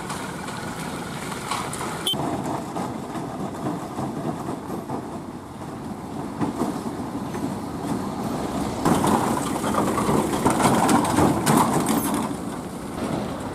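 Small cargo trucks' engines running and tyres churning as they drive through a waterlogged road. A sharp click comes about two seconds in. The sound grows louder about nine seconds in and eases off near the end.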